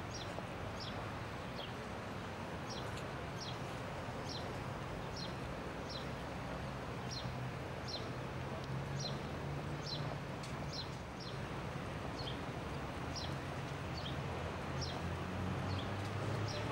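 A small bird chirping over and over, each chirp a short falling note, about one to two a second, over a steady background hum that grows a little louder near the end.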